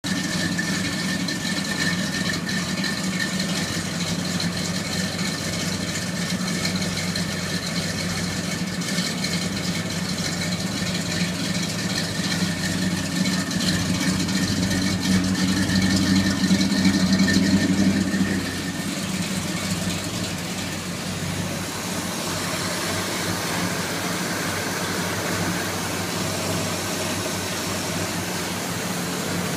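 1972 Chevelle's LS5 454 big-block V8 idling steadily. It grows louder for a few seconds past the middle, then settles back down.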